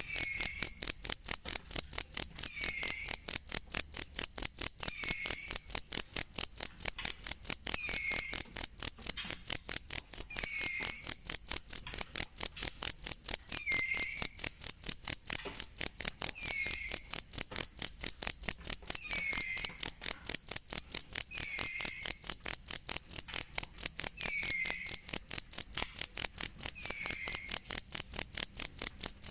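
Cricket chirping steadily, an even, high-pitched pulsing of about three chirps a second that never lets up. A fainter, lower, falling chirp repeats every two to three seconds behind it.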